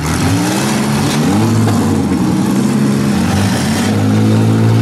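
Several demolition-derby minivan engines revving and running hard at once, their pitches rising and falling over one another.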